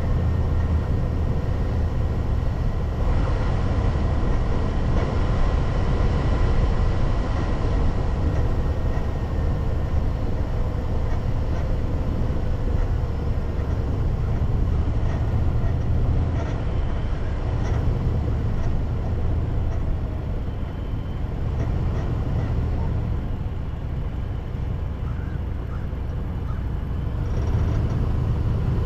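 A car driving along a road: steady low engine and tyre rumble that eases a little about two-thirds of the way through, then picks up again near the end.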